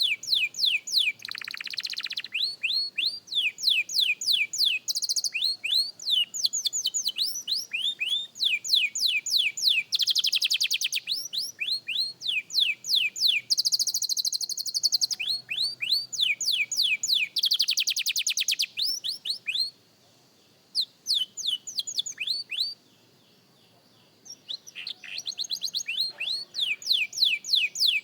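Young canary singing practice song: fast runs of repeated high falling whistled notes alternating with dense buzzing trills. It breaks off briefly about two-thirds of the way through, then resumes.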